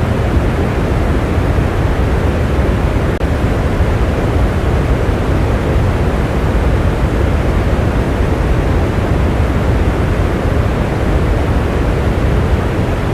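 Steady, heavy rain falling: a dense, even hiss with a strong low rumble and no single drops or other events standing out.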